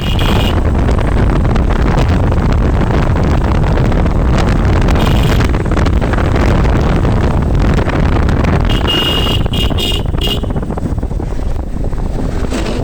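Wind buffeting the microphone during a bike ride, a loud steady rush. Short high beeps come through at the start, about five seconds in, and several in quick succession around nine to ten seconds.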